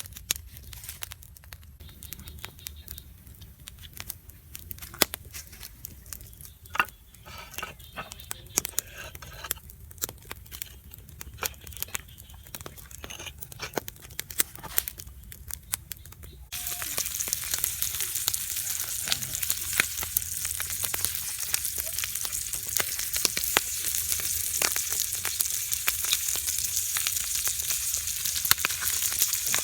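Scattered clicks and taps, then about halfway through a loud, steady sizzle starts abruptly: eel frying on a hot tile.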